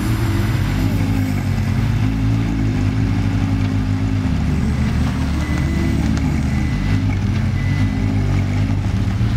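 Lamborghini Egoista's V10 engine running with the car standing still, its revs rising and falling again and again.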